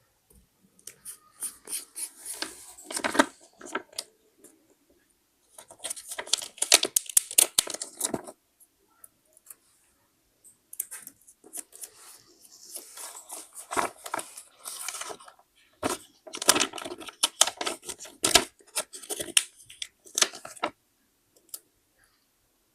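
Paper being handled close up in four bursts of crackly rustling and tearing, with short quiet pauses between.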